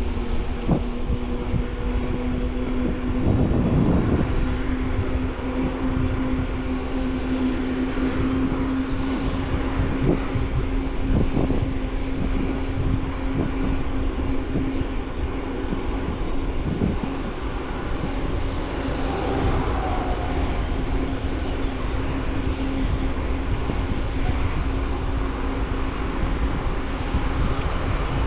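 Bicycle ride heard from a bike-mounted camera: steady rumble of tyres and wind on the microphone, with a steady hum running underneath. Short knocks from bumps in the path come now and then, the biggest about three to four seconds in.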